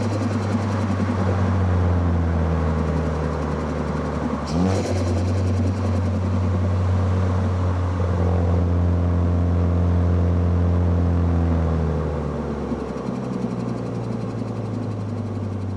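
Car engine, heard from microphones near the intake and exhaust, running at steady low revs, with a brief rev-up about four and a half seconds in and the revs and loudness easing off near the end.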